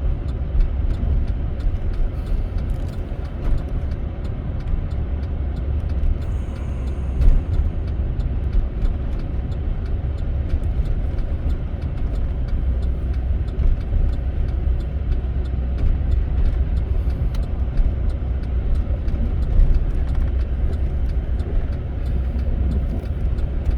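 A truck driving slowly on a snowy road, heard from inside the cab: a steady low rumble of engine and tyre noise.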